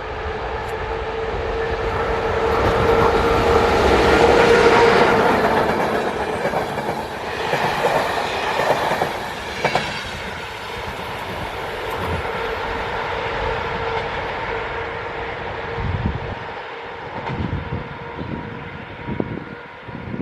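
Passenger train hauled by a Skoda 68E electric locomotive rolling past, wheels running on the rails with clickety-clack over the joints, loudest about four seconds in. A steady tone runs underneath, and a few separate knocks come near the end.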